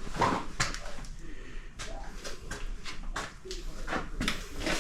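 Irregular scuffs and knocks, about a dozen in a few seconds, with the loudest just after the start and near the end: someone moving about and brushing against clutter in a small garage.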